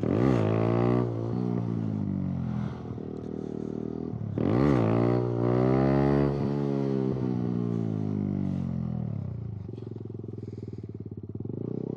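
Kawasaki Z125 motorcycle's small single-cylinder engine revved up hard twice, at the start and again about four seconds in, as the bike takes off in clutch-up wheelie practice. Each time the pitch climbs quickly and then falls slowly as the engine winds down, and near the end it settles into a steady idle.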